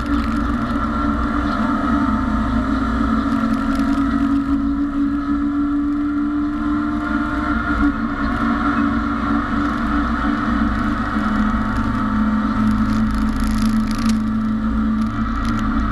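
BMW E30 race car's engine running continuously under racing load, heard from inside the stripped cabin together with road and wind noise. The engine note holds fairly steady, with small shifts in pitch.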